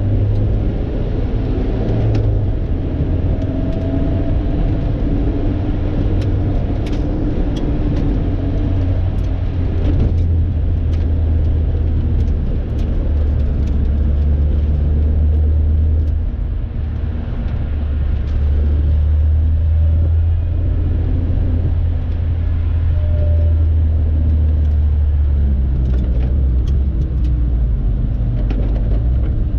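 Lotus sports car engine running hard on a circuit lap, its note rising and falling through the gears and corners, with a brief drop about 16 seconds in.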